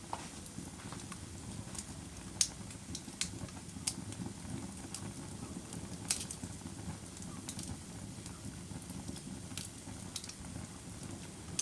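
Wood burning in a fireplace: a steady low rumble of the fire with irregular sharp crackles and pops, the loudest about two and a half and six seconds in.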